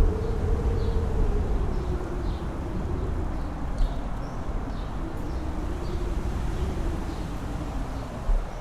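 Strong mountain wind buffeting the microphone with a heavy low rumble, and a howling tone that rises and falls in two long swells.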